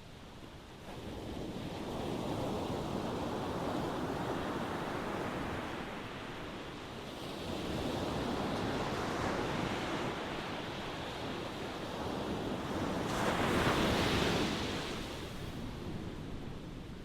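Ocean waves washing in slow surges, each rising and easing off over several seconds. The biggest wave breaks about three-quarters of the way through, with the brightest hiss of the wash, then it subsides.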